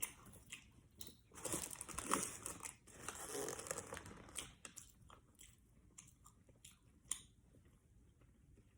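A person biting and chewing a crispy fried chicken sandwich, the crunching densest from about one and a half to four and a half seconds in, then trailing off into soft mouth clicks with one sharper click near the end.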